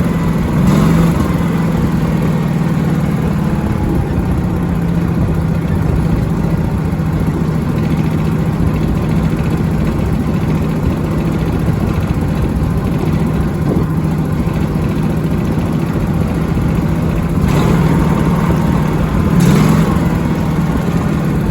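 Honda HT3810 lawn tractor engine running steadily, warming up after a cold start. Its speed wavers briefly about a second in and twice near the end.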